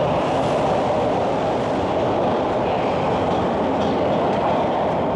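Toronto subway train running through the station, a steady loud rail noise.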